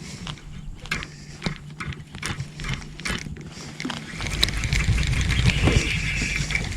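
Irregular knocks and clicks over a steady low hum, then a louder rushing noise from about four seconds in.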